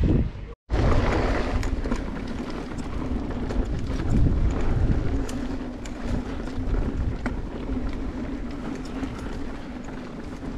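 Mountain bike rolling along a dirt trail: steady tyre rumble and wind on the camera microphone, with small rattles and clicks from the bike, starting after a brief gap in the sound just under a second in.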